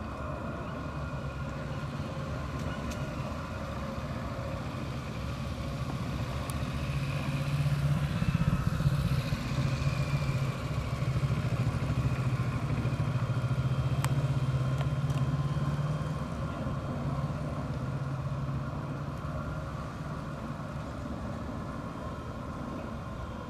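Railroad swing bridge's drive machinery running as the span turns closed: a steady low mechanical hum with a higher whine over it, growing louder in the middle and easing off toward the end.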